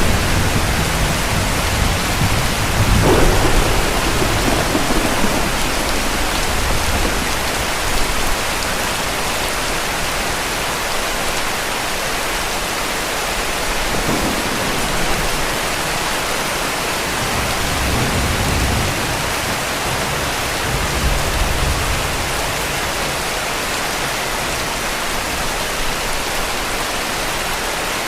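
Heavy rain falling steadily, a constant hiss. Distant thunder rumbles low through the first few seconds, swelling about three seconds in, and fainter rumbles return later.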